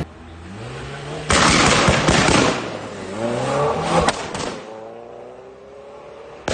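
Performance car engine revving up, then a loud rapid crackle of exhaust backfire pops lasting about a second. A second rev ends in two sharp bangs from the exhaust, and the engine's pitch falls away as it drops back.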